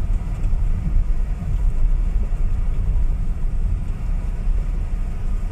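Steady low rumble of a car driving slowly on a gravel road, heard from inside the cabin: engine and tyre noise with the uneven grumble of the rough surface.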